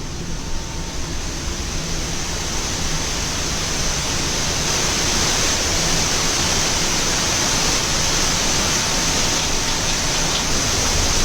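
Steady rushing noise inside a Boeing 787 cockpit as the airliner taxis after landing, with a low hum underneath. It slowly grows louder over the stretch.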